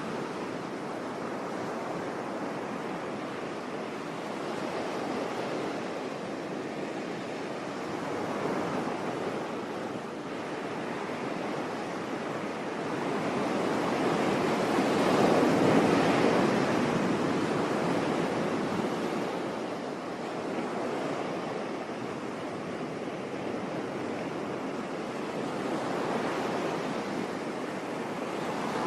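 Sea surf washing in continuously, swelling and falling every few seconds as waves break, with the biggest wave building and breaking about halfway through.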